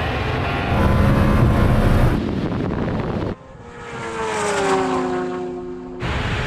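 Engines of a twin-turbo Lamborghini Huracán and a Kawasaki H2R running flat out in a drag race, heard in several abrupt cuts over a heavy low rumble. In the second half one engine note falls slowly in pitch.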